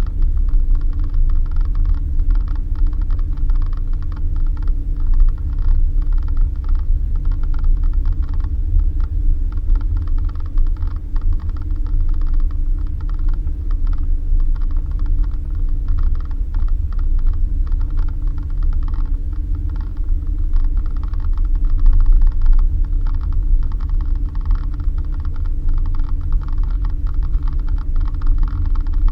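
Suzuki Jimny driving over a rough dirt road: a steady low engine and road rumble under constant creaking and rattling of the body and fittings.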